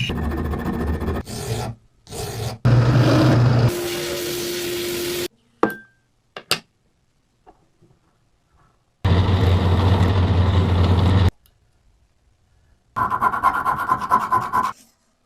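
Coffee grinder grinding in several separate stretches of rasping, rubbing noise. Each stretch starts and stops abruptly, with silent gaps between them and a couple of sharp clicks in the middle gap.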